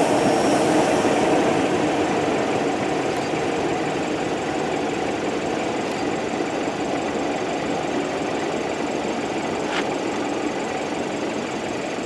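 Freight train of tank cars rolling away after its last car has passed, a steady rumble slowly fading, with one faint click about ten seconds in.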